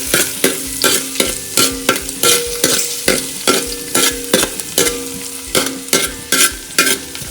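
Crushed garlic and ginger frying in hot coconut oil in a pan, sizzling, while a spatula stirs and scrapes the pan in regular strokes about three a second.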